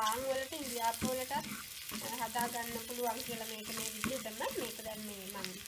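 Onions, green chillies and curry leaves sizzling in hot oil in a non-stick frying pan while being stirred, the tempering for a dhal curry. A sung melody wavers over the sizzle.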